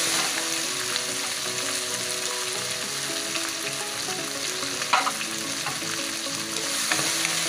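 A stir-fry of shrimp, chicken, onion and bell pepper sizzling steadily in oil in a non-stick wok, with a spatula knocking against the pan three times: about a second in, midway and near the end.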